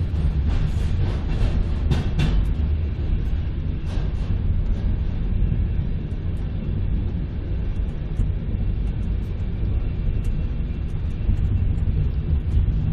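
Passenger train running, heard from inside the carriage: a steady low rumble of the wheels on the track, with a few sharp clicks in the first couple of seconds.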